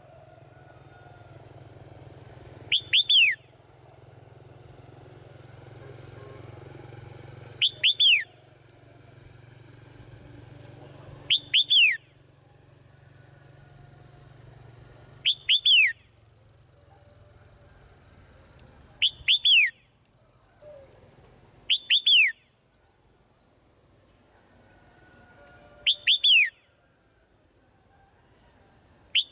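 A swallow calling: short bursts of two to four quick falling chirps, repeated at fairly even gaps of about four seconds, eight times. A faint steady high-pitched tone runs underneath.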